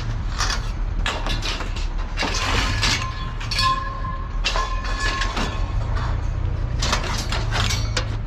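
Scrap metal pieces being thrown onto a scrap pile: a run of irregular clanks and crashes, one piece ringing briefly about three and a half seconds in, over a steady low engine hum.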